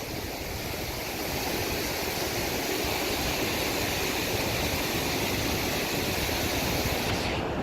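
Flood-swollen river water rushing through a whitewater kayak course: a steady, even rush of fast-moving water, a little louder from about a second in.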